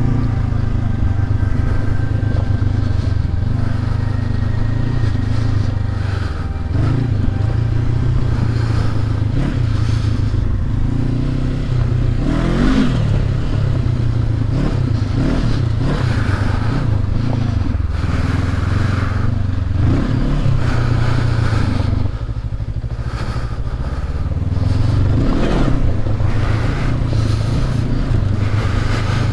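Motorcycle engine running on the move, its revs rising and falling a few times, with brief rattling noises over it.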